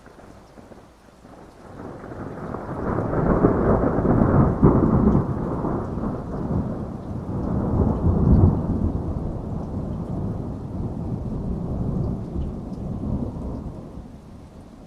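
A long roll of thunder over heavy rain: the low rumble swells a couple of seconds in, peaks twice, and dies away near the end.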